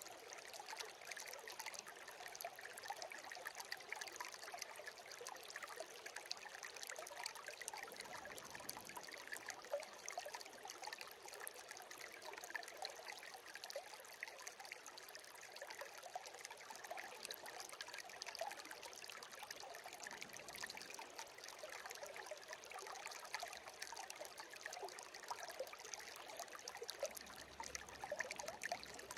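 Small stream (brook) trickling and babbling steadily, with many small splashes and gurgles over a constant rush of running water.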